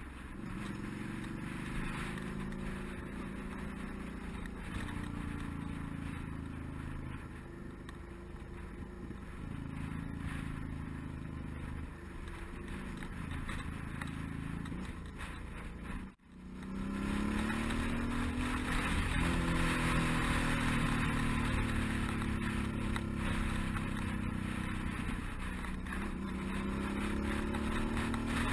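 Suzuki DL650 V-Strom's V-twin engine under way, its pitch climbing through each gear and dropping back at every upshift, with wind rushing over the microphone. About halfway through, the sound cuts out for a moment and comes back with louder wind.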